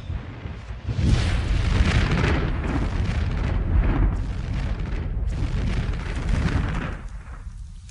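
Volcano erupting: a deep rumble with repeated surges of rushing noise that build about a second in and die away near the end.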